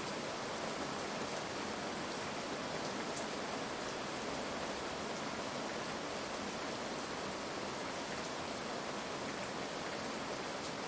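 Steady heavy rainfall, an even hiss with faint scattered drop ticks and no thunder.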